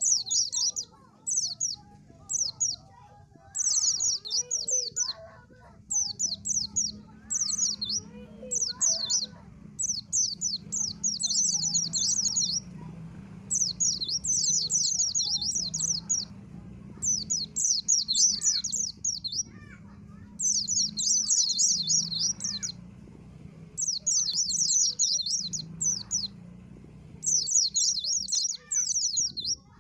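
White-eye (pleci, a Zosterops songbird) singing: rapid, high twittering phrases repeated over and over with short pauses between them.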